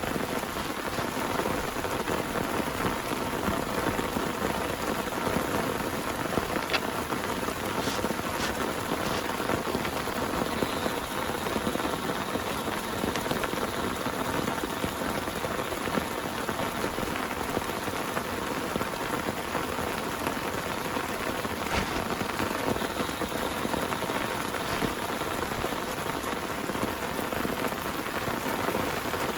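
Heavy rain pouring steadily on a surface, a dense even patter with a few sharper individual drop hits standing out.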